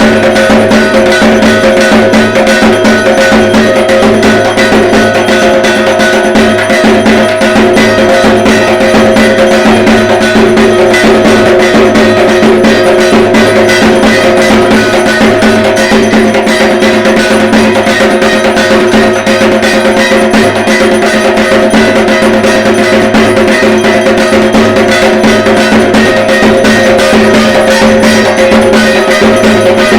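Dhak, the Bengali barrel drum played for Durga Puja, beaten in a fast, continuous rhythm, with a metallic ringing over the strokes.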